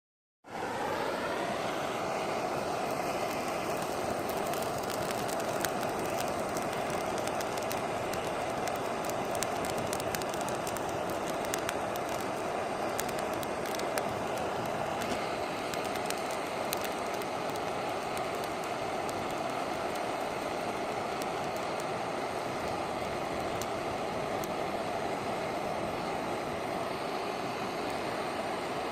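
A wood fire of boxed firewood burning steadily, a continuous rush of flame with many small crackles and pops, most frequent in the first half.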